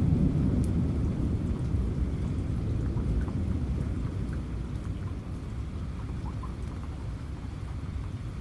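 Low rumble of thunder dying away over several seconds, under steady rain with scattered drop ticks.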